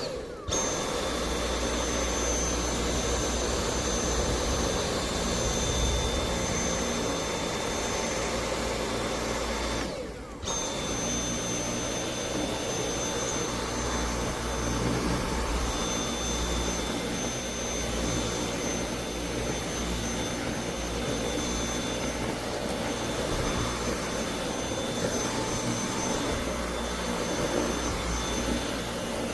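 Dyson V8 Animal cordless stick vacuum running steadily with a high whine. About ten seconds in it cuts out for a moment, then starts again.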